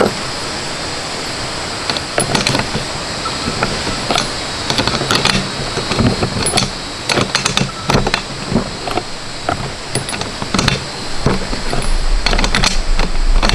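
Repeated sharp clicks and knocks of hand work on a lawn mower, such as tools and metal parts being handled, over a steady hiss. A low rumble builds near the end.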